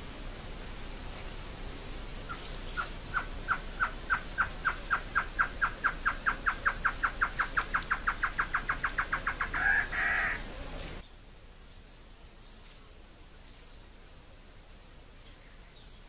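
A bird's song: a long run of short piping notes that speeds up and climbs slightly in pitch, ending in a rougher burst. A steady high insect drone runs beneath and cuts off suddenly soon after.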